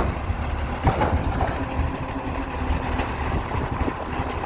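Recycling truck engine idling with a steady low rumble, with a sharp knock about a second in.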